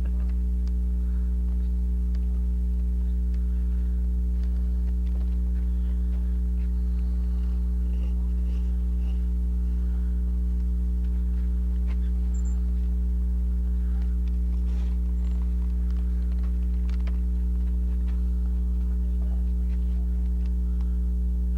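Steady low electrical mains hum with a stack of evenly spaced overtones, unchanging throughout, with a few faint ticks and clicks here and there.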